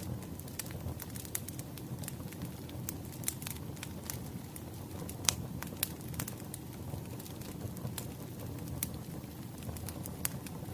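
Wood fire crackling: a steady low rumble with irregular sharp pops and snaps, the loudest about five seconds in.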